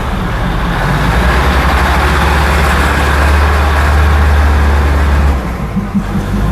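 Diesel train engine rumbling steadily as it runs through the market, with rolling noise swelling in the middle; the rumble stops abruptly about five seconds in.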